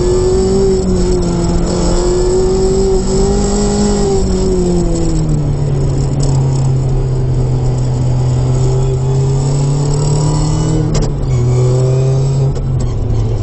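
Modified Mazda MX-5 ND 2.0-litre four-cylinder running under way, with a custom 4-into-1 exhaust manifold and Cobalt muffler. The engine note holds fairly steady, drops lower in pitch about halfway through and again near the end, with a brief knock shortly before the end.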